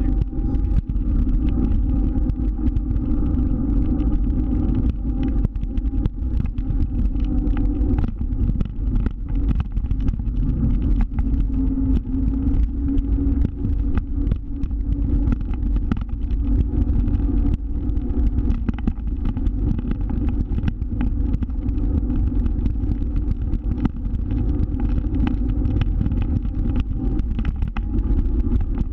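Motor scooter engine running steadily while riding, its pitch drifting up and down a little, over a heavy low rumble.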